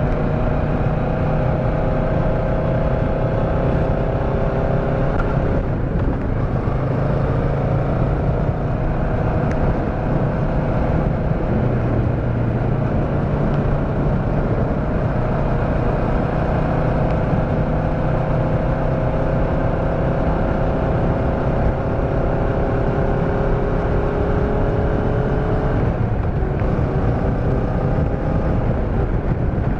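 Motorcycle engine running under way at a fairly steady pitch, with low wind and road rumble; the engine note breaks and shifts briefly about six seconds in and again near the end.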